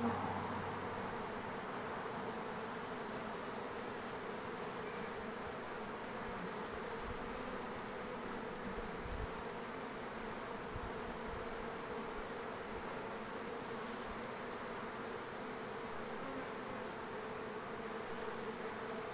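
A swarm of honey bees buzzing steadily as many fly around and enter a hive box, some fanning Nasonov pheromone at the entrance to guide the rest in.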